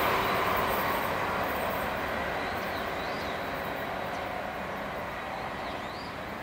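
JR West 381 series electric limited express train running away into the distance, its rumble on the rails fading steadily.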